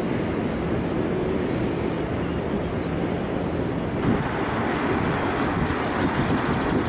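Wind buffeting the microphone on the deck of a river passenger boat, over the low steady hum of the boat's engine and the rush of water along the hull.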